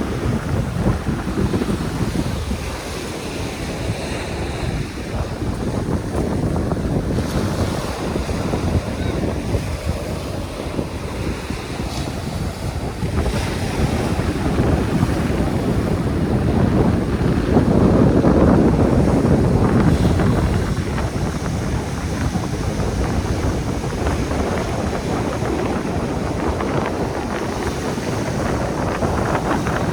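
Wind buffeting the microphone over the sound of surf, a loud rumbling noise that swells and eases, strongest a little past the middle.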